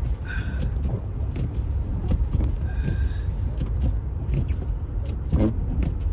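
Steady low rumble of an SUV driving slowly on a snow-covered road, heard from inside the cabin, with scattered light clicks and knocks.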